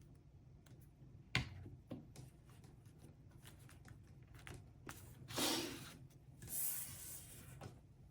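Paper and cardstock being handled: a sharp tap about a second in, a few light clicks, then two brushing swishes of paper sliding against paper in the second half.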